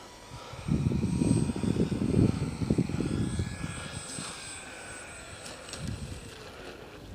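Electric motor and propeller of a Dynam Beaver RC model plane whining in flight, its pitch sliding down in the second half as it passes. Low gusts of wind on the microphone rumble over it for the first few seconds and are the loudest sound.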